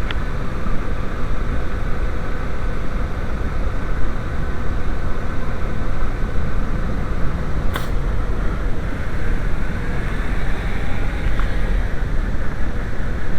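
Turbocharged 1.8T four-cylinder engine idling steadily, with one sharp click about eight seconds in. The faulty PCV check valve is being reconnected, which brings on misfires right away because the engine runs too lean.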